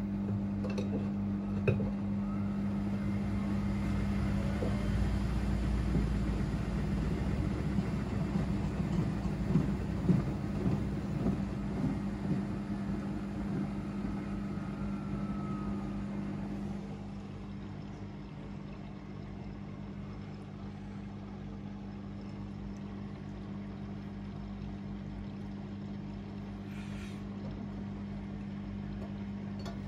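Two washing machines, an AEG Öko-Lavamat 88840 and a Miele Novotronic W 985 WPS, running on an easy-care wash: a steady motor hum under the noise of the drum and water, with a few knocks. The noise grows rougher, then drops to a quieter steady run a little past halfway.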